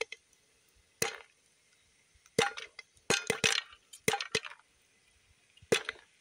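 Popcorn kernels popping one at a time and in small clusters inside a lidded pot over a campfire: about a dozen sharp pops with short gaps between them, the early stage of the batch.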